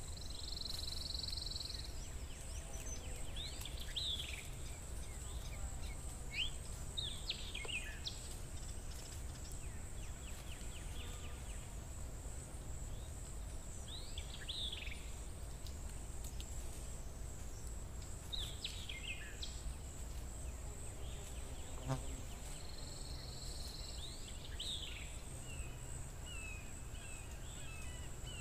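Birds calling: short, sharp downward-sweeping calls every few seconds, with a quick run of chirps near the end, over a steady high-pitched whine and a low background rumble.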